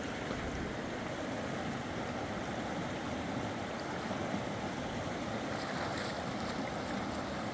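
Steady rushing of flowing river water, even and unbroken, with a few faint ticks near the end.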